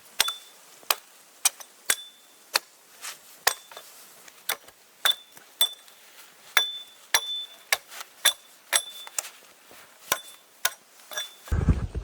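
Repeated sharp taps of a metal tool striking, about two a second, many with a short high ring. Near the end it cuts to a loud, steady rushing noise.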